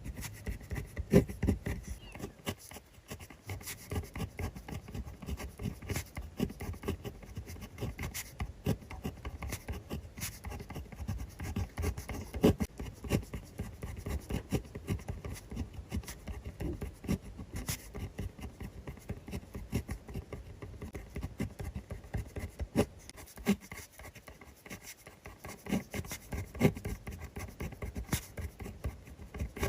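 A pen writing on notebook paper, close up: a steady run of small scratching strokes and light taps of the pen tip, uneven in rhythm.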